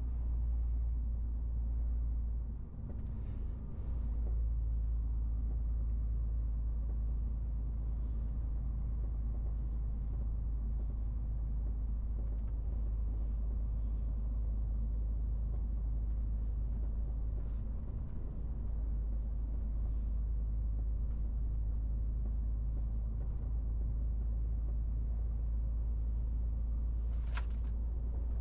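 Steady low rumble of a MAN TGX 18.470 truck driving: its engine and the road noise. The rumble dips briefly twice, and one short sharp sound comes near the end.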